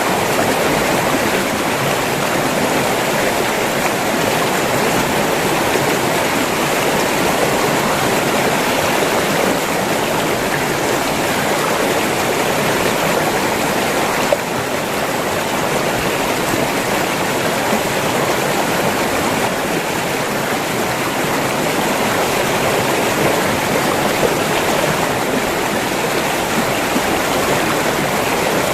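River water flowing steadily over rocks, a continuous rushing babble. There is a brief click and a slight drop in level about halfway through.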